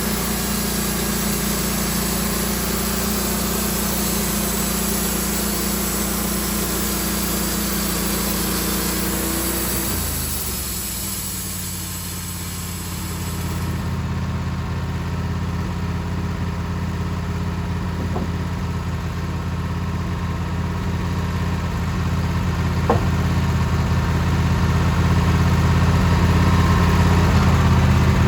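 Engine running steadily. About ten seconds in its pitch drops to a lower, deeper run, and a few seconds later a high hiss that ran with it stops. There is a single sharp click later on.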